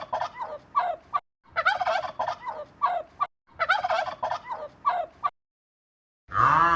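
A bird's rapid, rattling call, given three times in identical bursts of nearly two seconds each. After a short silence, a different, louder call with a falling pitch begins near the end.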